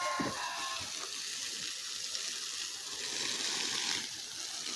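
Water spraying from a garden hose onto plants and soil: a steady hiss.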